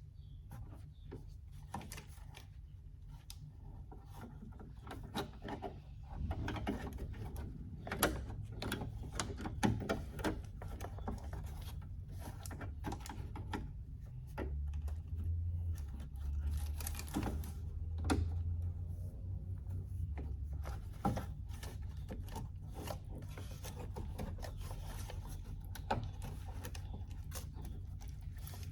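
Irregular clicks, knocks and rattles of hand tools and metal parts being worked inside a car door, over a steady low hum.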